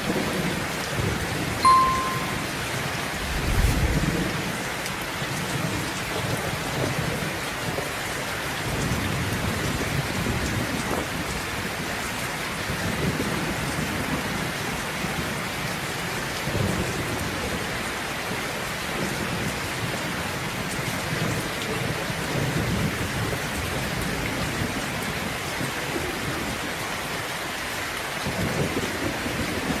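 Steady rain with thunder rumbling low several times, the strongest roll about four seconds in. A short high ping sounds just before it, about two seconds in.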